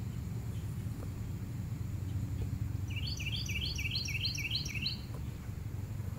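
A songbird singing a quick run of about ten repeated chirping notes, roughly five a second, from about three seconds in, over a steady low outdoor rumble.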